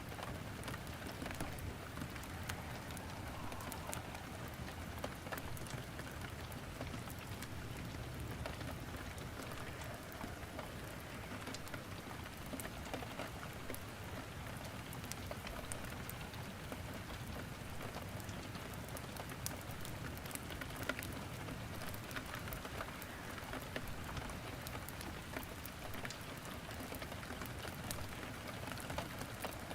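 Steady rain falling, mixed with crackling wood burning in a fireplace: an even hiss dotted with frequent sharp pops and clicks.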